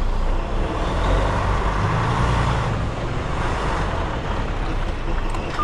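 A semi truck running, with steady engine and road noise.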